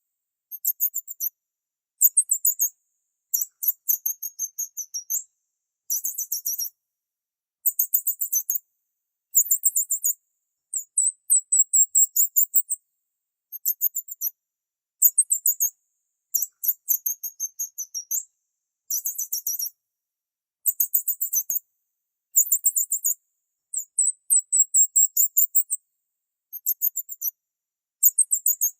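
Very high-pitched bird chirping: quick trills of rapid notes, each burst lasting about half a second to a second, repeating every second or two with short pauses between.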